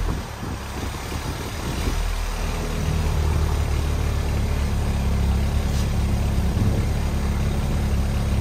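A 2003 Saab 9-3's engine idling just after a cold start through a freshly fitted Maptun dual exhaust, dipping slightly before settling into a steady idle from about three seconds in. One pipe connection is leaking exhaust, which the owner finds right away and calls pretty loud.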